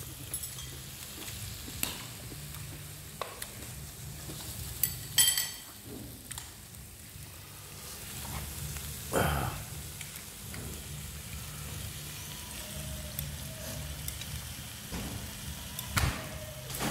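Meat and vegetables sizzling in a pan on a tabletop barbecue grill as they are stirred. A few sharp clinks of utensils sound over it, the loudest about five seconds in.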